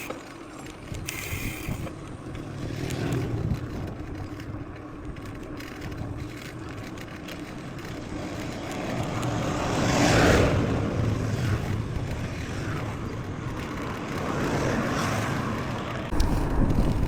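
Mountain bike ridden over a trail, heard through a chest-mounted action camera: tyre noise on the ground with the bike's rattles and clicks and a low rumble, growing loudest about ten seconds in and again near the end.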